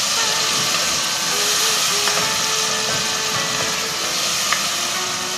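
Onion, garlic, chili and tomato sautéing in hot oil in a pan: a steady sizzle, with a single sharp click about four and a half seconds in.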